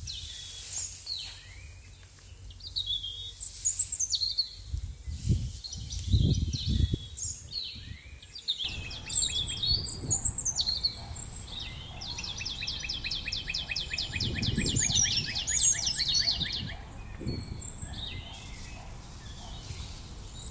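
Wild birds singing and calling outdoors, with short high phrases throughout and a long fast trill of evenly repeated notes in the middle. Low rumbles come twice, a little after the first quarter and again past the middle.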